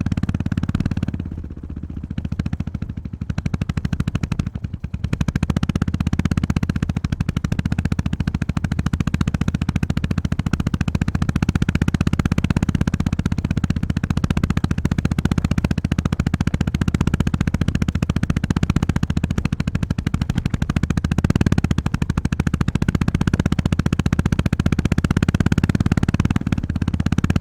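Honda GB350S 348 cc air-cooled single-cylinder engine thumping along under way, with the throttle eased off briefly about two seconds in and again near five seconds, then pulling steadily.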